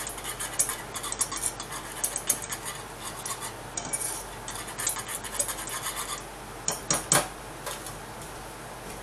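Metal whisk stirring and scraping a thickening sauce in a non-stick saucepan, a quick run of light clinks and scrapes against the pan. About seven seconds in come a few louder knocks as the whisk is put down, and then it goes quieter.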